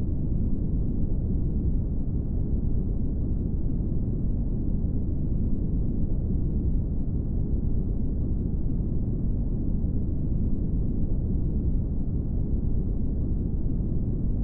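Brown noise: a steady, low, rumbling hiss with most of its weight in the bass and little treble, unchanging throughout.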